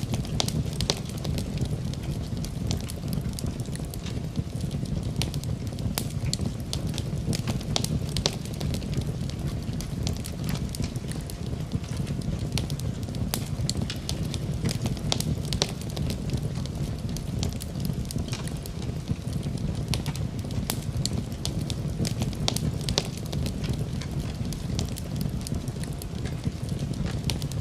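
Fire burning in a fireplace: a steady low rumble of flame with frequent sharp crackles and pops.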